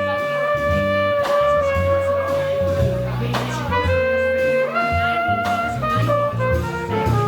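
Live jazz band playing: a horn holds long, slowly changing melody notes over a walking bass line.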